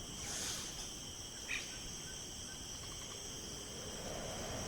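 Steady high-pitched chirring of insects, several unbroken tones together, with a soft swell of hiss near the start and a faint click about a second and a half in.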